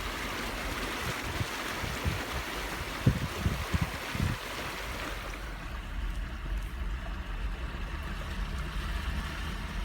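A Jeep drives slowly through shallow floodwater, water hissing and sloshing under the tyres over a low engine rumble. The hiss of the water dies down about halfway through, and a few dull knocks come around three to four seconds in.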